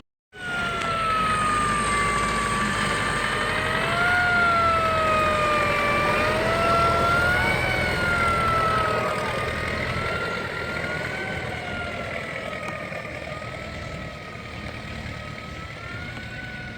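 A siren wailing, its pitch rising and falling slowly and unevenly, growing fainter over the second half.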